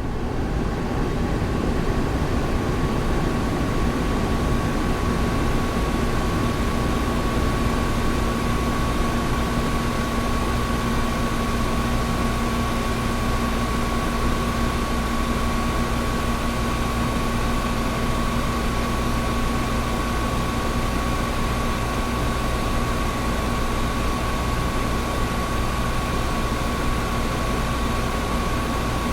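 Air conditioner running steadily: an even rush of air over a low rumble, with two steady hum tones, one low and one higher. It fades up over the first second and then holds level.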